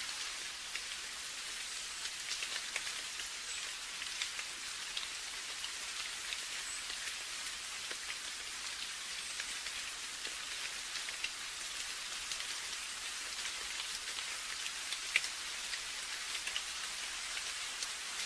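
Steady rainfall: a continuous high hiss with many close, distinct drops ticking through it.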